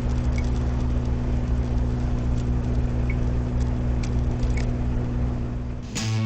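A car running at a steady speed, a constant low engine hum under road noise. Electric guitar music starts right at the end.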